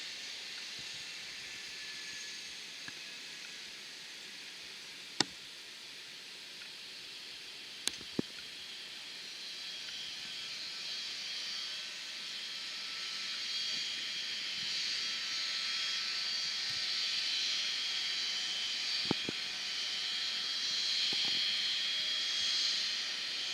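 Distant jet aircraft engines: a steady hiss with a faint whine, slowly growing louder from about halfway through. A few sharp clicks stand out against it.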